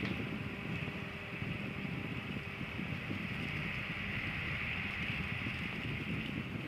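A small 12 V PC cooling fan running: a steady rush of moving air with a low hum underneath.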